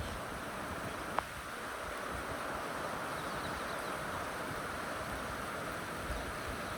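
Steady rain falling, an even hiss with a low rumble underneath, and a single sharp tick about a second in.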